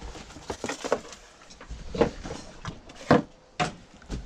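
Irregular knocks and clunks of debris being handled and set down inside an RV as it is cleared out, about half a dozen hits over a few seconds.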